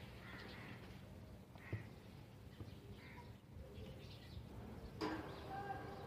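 Faint outdoor bird calls: a few short calls in the first three seconds, then a louder pitched call about five seconds in.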